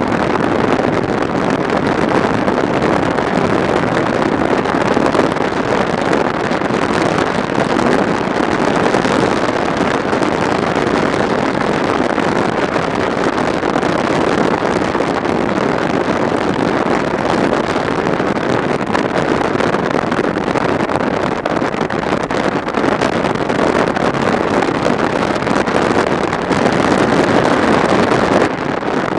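Steady wind rushing over the microphone of a motorcycle under way at riding speed, with road and engine noise blended into one even rush; it eases slightly near the end.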